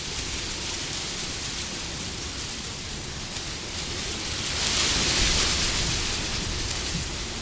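Wind blowing as a steady rushing noise, rising into a stronger gust about halfway through and easing off again.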